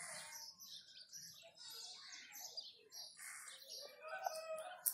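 Birds chirping and twittering in many short, quick calls, with a brief click near the end.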